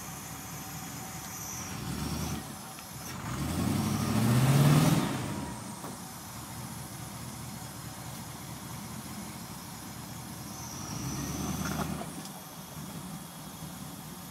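Off-road 4x4's engine running at low speed as it crawls through deep mud. It revs up twice: a rising rev about four to five seconds in, the loudest part, and a shorter, smaller rev a little before the end.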